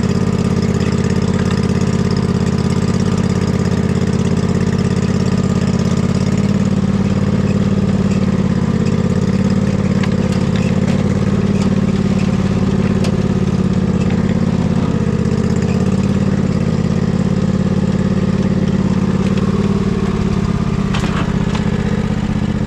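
Husqvarna riding mower's engine running steadily while the mower drives along a muddy trail, its pitch wavering slightly now and then.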